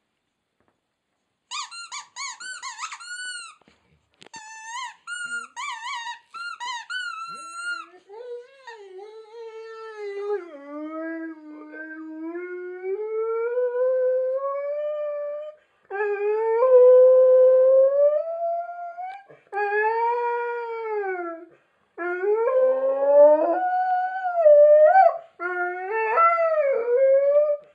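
Dog vocalizing in high, wavering squeaks like a squeaky toy for several seconds. It then drops into longer, lower whining howls that rise and fall, in several phrases with short breaks.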